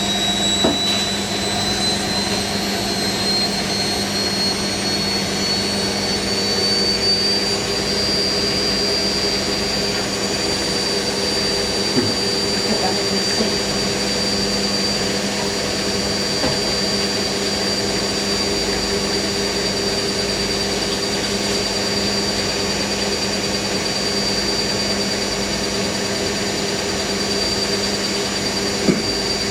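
Hoover NeXtra washing machine spinning its load, the drum motor's high whine climbing in pitch over the first several seconds and then holding steady at speed over a constant lower hum, with a few light knocks.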